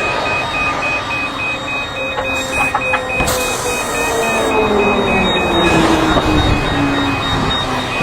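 Fast, steady electronic beeping like an alarm, over a constant rumbling noise, with a lower tone sliding slowly downward through most of the stretch.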